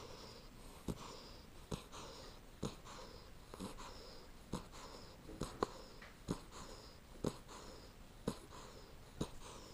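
Bluetick Coonhound puppy snoring in its sleep: faint, wheezy breaths about once a second, with sharp clicks at about the same pace.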